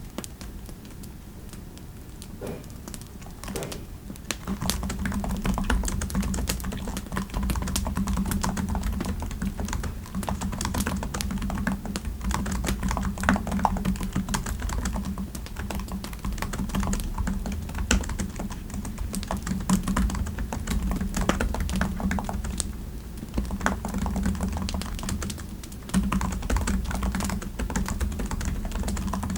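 Typing on a computer keyboard: a quick, uneven run of key clicks. It is lighter and sparser at first and becomes steadier and louder from about four seconds in.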